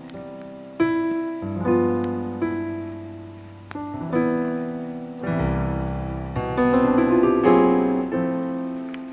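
Background music: solo piano playing slow chords and melody notes, each struck and left to ring out.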